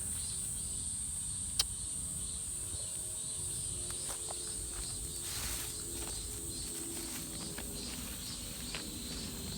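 Steady high-pitched chorus of insects in woodland, with one sharp click about one and a half seconds in.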